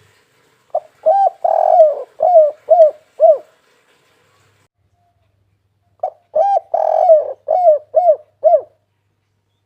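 Spotted dove (tekukur) cooing: two phrases of about six short, arched coos each, the second starting about three seconds after the first ends.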